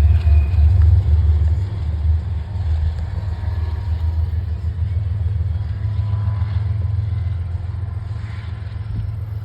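Freight train rolling past: a steady low rumble, loudest in the first second or two and then easing slightly.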